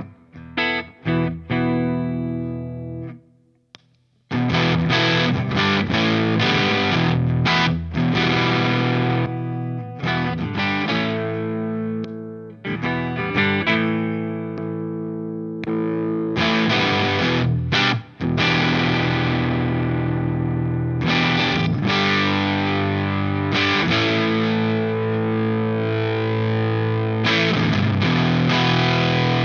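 Electric guitar played through a DOD Looking Glass Class A FET overdrive pedal: overdriven picked notes and chords, broken by a brief pause about three seconds in, then sustained riffing.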